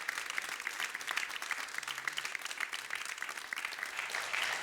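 A congregation applauding, many hands clapping together.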